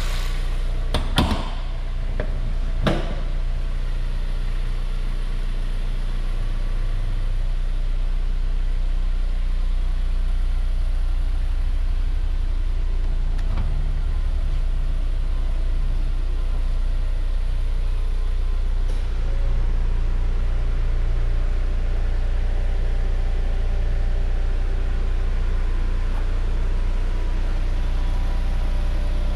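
Honda S2000's four-cylinder engine idling steadily. Two sharp knocks about a second in and again about three seconds in.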